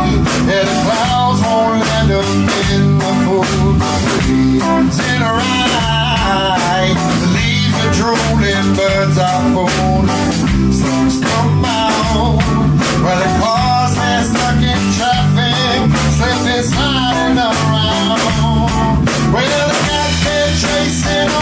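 Blues-rock band music with a steady beat: guitar over bass and drum kit.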